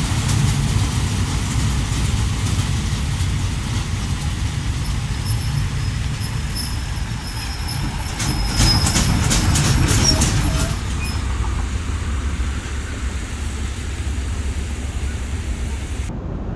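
Passenger train running along the rails, heard through an open carriage window: a steady low rumble of the wheels with air rushing past. About halfway a thin high-pitched squeal comes in, with a quick run of sharp clicks.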